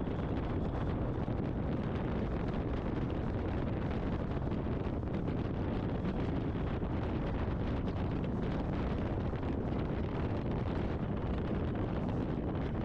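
Steady wind rush on a motorcycle helmet's intercom microphone while riding, with road and engine noise blended underneath.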